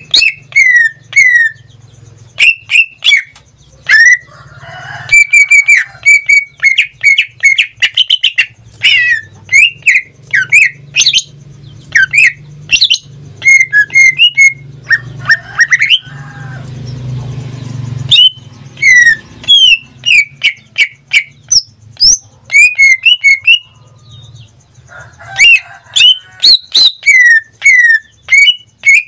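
Pet cucak ijo (green leafbird) singing loudly in a long run of sharp, rapid whistled notes, many sweeping down in pitch, with a short break a little past the middle. A faint low hum runs underneath.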